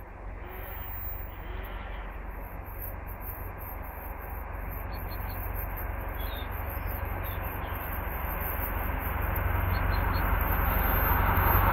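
DR1A diesel multiple unit approaching, its sound growing steadily louder, with a few faint bird chirps.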